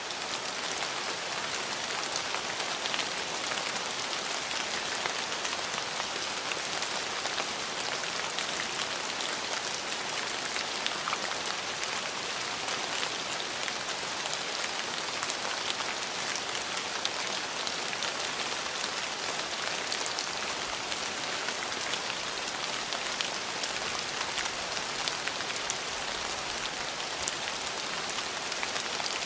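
Steady rain falling on hard surfaces: an even hiss dotted with many small drop ticks.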